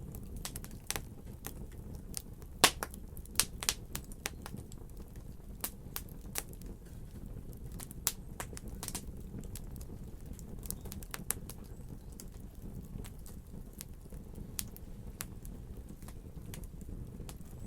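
Wood fire crackling, with irregular sharp pops and snaps over a soft low rumble; the loudest pop comes about two and a half seconds in.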